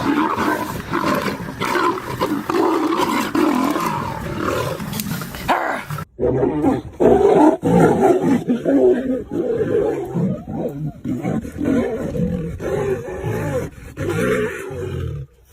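Big cats growling and roaring in a loud, drawn-out animal fight. The sound breaks off abruptly about six seconds in and picks up again in a second clip.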